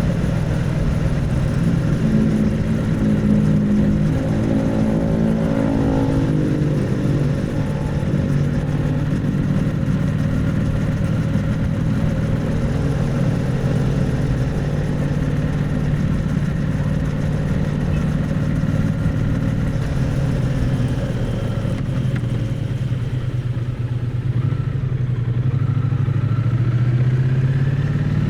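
Triumph Bonneville T100's parallel-twin engine and exhaust running under way, heard close to the exhaust. The engine note is steady, rising and falling in pitch a few times as the throttle changes.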